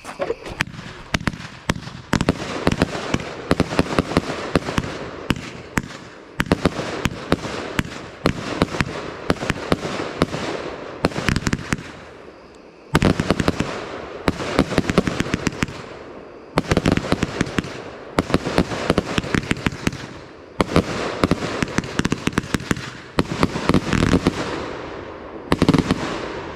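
Fireworks going off in repeated volleys of rapid sharp bangs and crackle, a new volley roughly every two seconds, each dying away briefly before the next.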